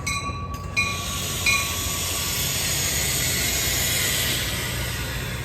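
A train passing on the line, its wheels on the rails making a broad hiss that swells to a peak about four seconds in over a low rumble. Short repeated ringing dings, typical of a grade-crossing bell, sound during the first second and a half.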